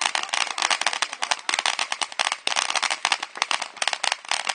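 Ground firework fountain burning, a hissing spray full of dense, rapid crackles.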